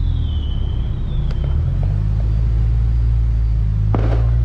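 Car engine running steadily at low revs, a deep even rumble. A faint high whine falls in pitch during the first second and a half, and there is a short click near the end.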